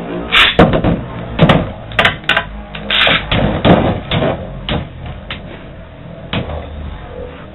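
Irregular clicks and knocks of hard plastic Beyblade parts and launchers being handled and set down, busiest in the first few seconds and sparser near the end.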